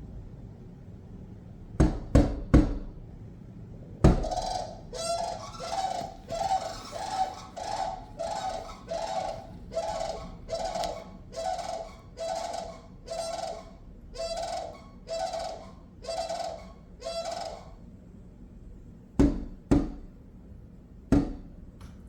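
Cranes' bills knocking on window glass: three sharp knocks about two seconds in. Then comes a run of about fifteen repeated loud calls, roughly one per second, and three more knocks near the end.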